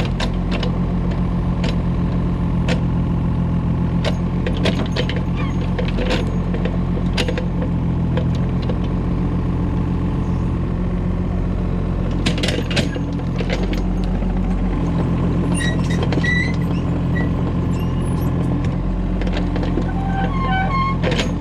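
Diesel engine of an excavator running steadily as it digs and loads soil onto a công nông farm truck, with scattered clanks and knocks and a few short high chirps.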